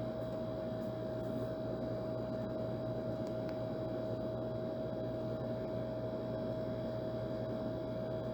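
Old air conditioner running steadily: an even rush of air with a constant mid-pitched hum and a low drone beneath.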